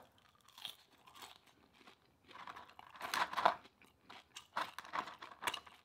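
Chewing a mouthful of food, with irregular soft crunches and clicks that are loudest about halfway through.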